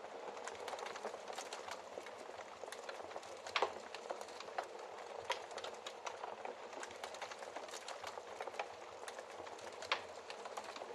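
Wood fire burning in a fireplace: a steady soft hiss with irregular crackles and pops, the loudest pops about three and a half seconds in and near the end.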